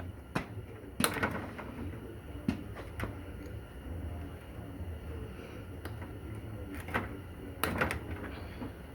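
Scattered sharp knocks and clanks of hand tools and metal parts being handled during the teardown of a Corvair Powerglide transmission: about seven in all, one of the loudest about a second in and a short cluster near the end.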